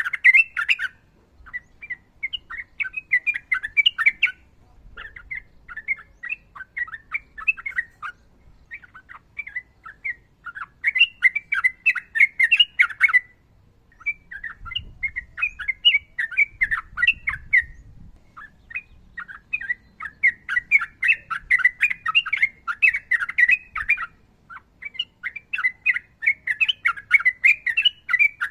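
Yellow-vented bulbul (trucukan) singing long, rapid chattering phrases of bubbly notes, each run lasting a few seconds with brief pauses between.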